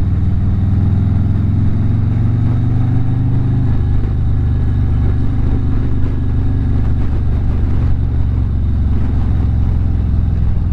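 Harley-Davidson V-twin motorcycle engine running steadily under way, heard from the rider's seat; its note shifts lower about four seconds in.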